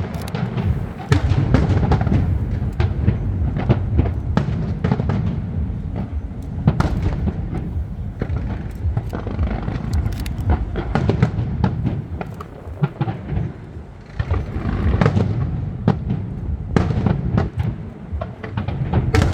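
A fireworks display, with shells bursting in quick succession: many sharp bangs and crackles over a constant low rumble, easing off briefly about two-thirds of the way through, with music playing along.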